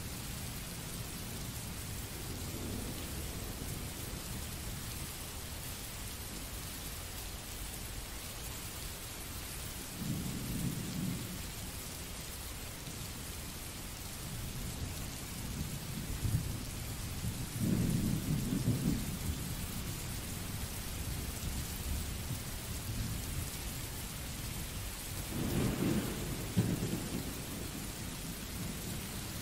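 Recorded rain sound effect: steady rain hiss with three low rolls of thunder, the loudest near the end.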